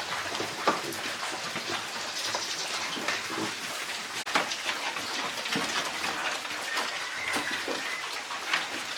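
Running, splashing water with scattered small clicks and knocks.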